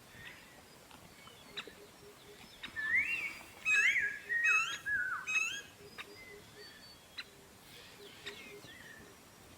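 A songbird singing a run of clear, warbling whistled phrases, loudest from about three seconds in for about three seconds, with fainter scattered calls before and after.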